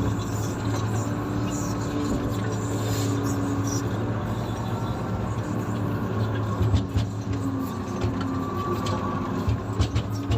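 Komatsu motor grader's diesel engine running steadily under load, a constant low drone, with a few sharp knocks and clunks about two-thirds of the way through and again near the end.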